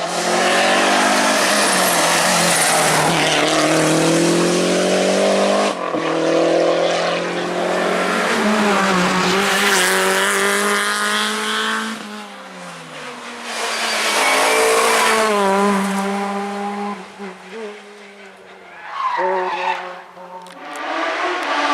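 Rally car engines at full throttle as several cars race past in turn. The revs climb high and drop back at each gear change, the sound breaks off abruptly between cars, and it fades briefly between passes near the end.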